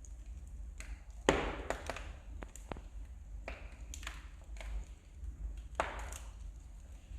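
Wood fire crackling in a fireplace: irregular sharp pops and snaps of burning logs, the loudest about a second in and another near the end, some trailing a brief hiss, over a low steady hum.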